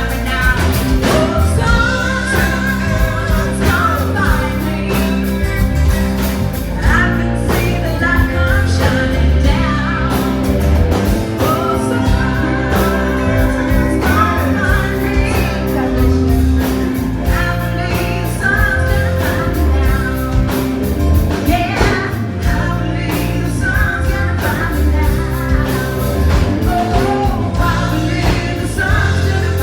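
A small band playing a song live, a singer's voice over the instruments with a steady beat.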